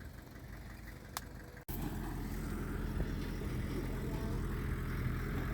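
Diesel engine of heavy earthmoving machinery running steadily. It is quieter at first with a single click, then after an abrupt cut about a second and a half in it is louder and steady.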